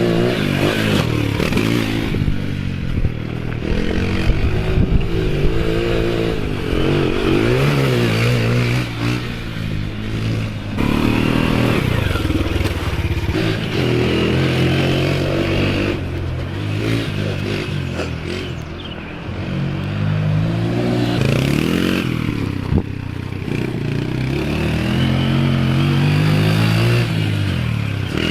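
Honda TRX 90 quad's single-cylinder four-stroke engine being ridden hard, revving up and easing off again and again, its pitch climbing and dropping with each run, along with some clattering and scraping.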